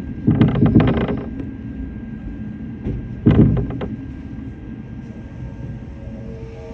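Shinano Railway SR1-series electric train running: a steady low rumble, with a quick cluster of clacks from the wheels on the track about half a second in and another about three seconds in.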